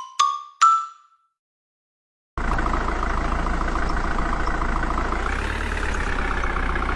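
The last two notes of a marimba jingle in the first second. After a short silence, a small electric motor of a DIY model tractor starts about two and a half seconds in and runs with a steady buzzy whir.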